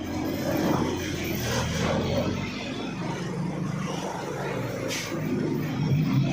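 Heavy truck's diesel engine running, with a brief hiss about five seconds in.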